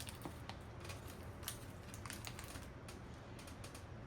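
Scattered small clicks and crackles of a wrapped cheese portion being handled, opened and cut.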